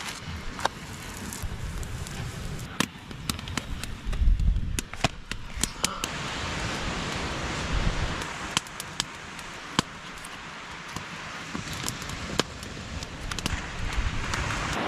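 Campfire crackling, with sharp pops at irregular intervals over a steady hiss, and low rumbling gusts of wind on the microphone, strongest about four seconds in.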